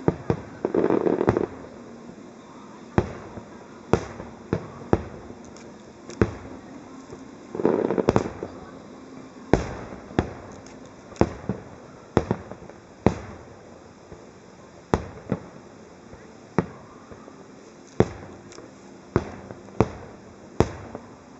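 Aerial firework shells bursting in succession, one sharp bang about every second, each with a short echo. There are two denser, longer stretches of bursting near the start and about eight seconds in.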